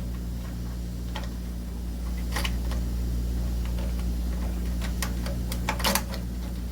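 Light clicks and taps of a protective cover being handled and fitted over an electric water heater's element wiring, scattered irregularly, over a steady low hum.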